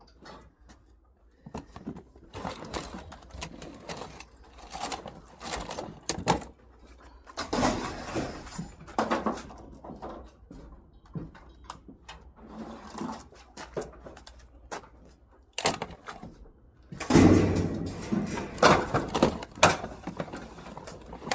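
Irregular knocks, clatter and scraping of scrap items being handled and pulled apart, with a louder run of bangs near the end.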